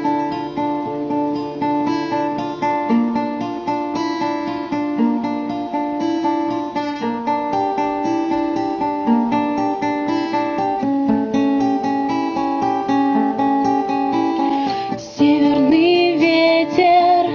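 Acoustic guitar playing a slow picked introduction of single notes over bass; about fifteen seconds in the music grows louder and a singing voice comes in.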